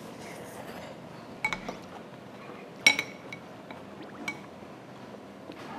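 Metal spoons and forks scraping and clinking against ceramic pasta plates as the last of the cream sauce is scraped up. There are a few sharp, ringing clinks: two about a second and a half in, the loudest near three seconds, and a smaller one past four seconds.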